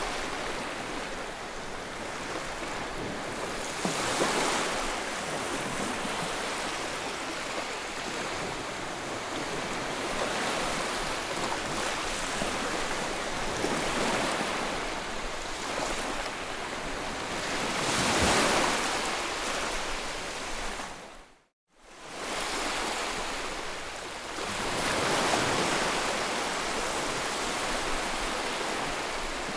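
Ocean waves washing onto a shore, with a swell of surf every few seconds. About two-thirds through the sound fades to almost nothing for a moment, then returns.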